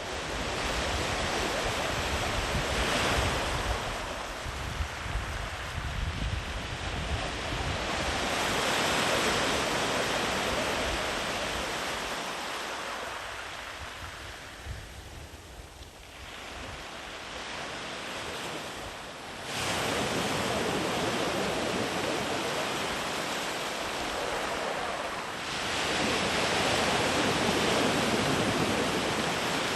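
Sea waves breaking and washing up a sandy beach, the surf swelling and fading in several surges, one building suddenly about two-thirds of the way in.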